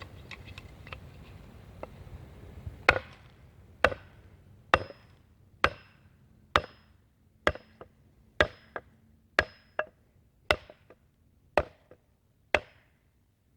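Pointed wooden stool leg being knocked into an augered hole in a birch seat: about a dozen sharp wooden knocks, roughly one a second, beginning about three seconds in.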